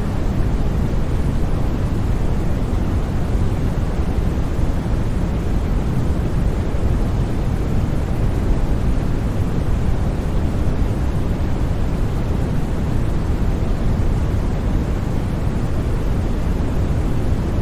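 Steady sleep noise: an unbroken, even rushing hiss that is heaviest in the low range and thins out toward the highs, with no changes or sudden sounds.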